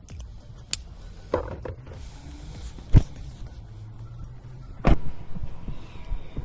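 A few sharp knocks and thumps, the loudest about three seconds in and another near five seconds, over a low background rumble.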